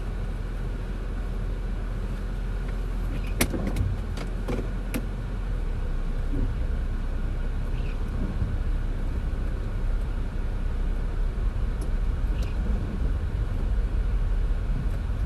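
A car driving in the rain: a steady low rumble of road and engine under an even rain hiss. There are a few sharp clicks between about three and a half and five seconds in.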